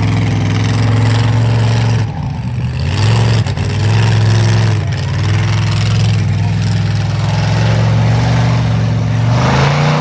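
Awesome Kong monster truck's engine running loud and revving, its pitch dipping briefly a few times and climbing near the end.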